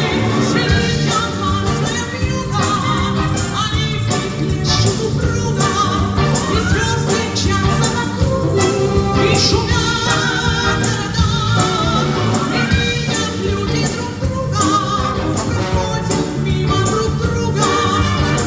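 A female voice singing with vibrato over a brass band accompaniment.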